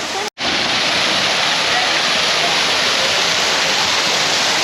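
Loud, steady rushing noise, even across the range like falling water or a dense hiss, broken by a brief total dropout near the start.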